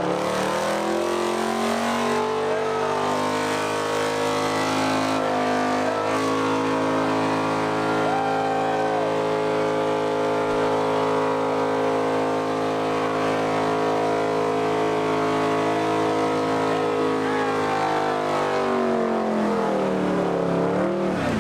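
Car engine held at high, steady revs for about twenty seconds with a hiss of spinning tyres, as in a burnout; the revs drop away near the end.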